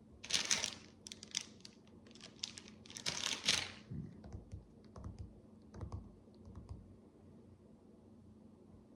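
Loose micro bricks rattling and clicking as they are handled: two longer bursts of rattling, near the start and around three seconds in, then scattered light clicks and soft taps that die away about two seconds before the end.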